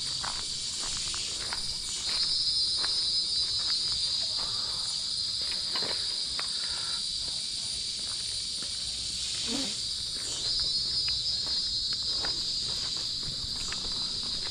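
A steady, high, buzzing chorus of rainforest insects that swells louder about two seconds in. Scattered short ticks sound over it.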